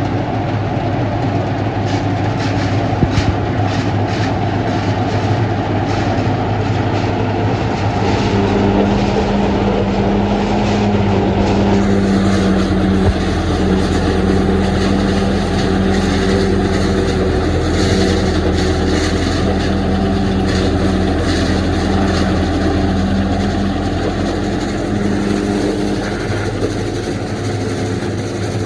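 Silage harvester running steadily under load, its engine and machinery making a loud continuous drone. A strong hum rises over it about a third of the way in and fades out near the end.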